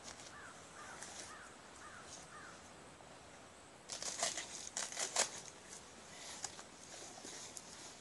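A bird calling five times in quick succession, then a burst of crunching and clattering with sharp clicks about four seconds in, and softer scattered clicks after it.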